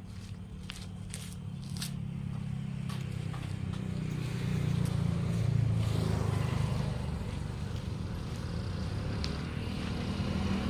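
A motor vehicle engine's low rumble that swells to its loudest about halfway through, eases, then builds again, with a few light clicks in the first two seconds.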